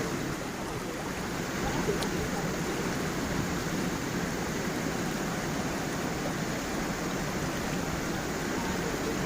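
Gentle waterfall and stream, water flowing steadily over stones.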